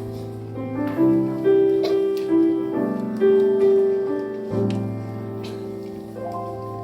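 Piano playing slow sustained chords and a melody line.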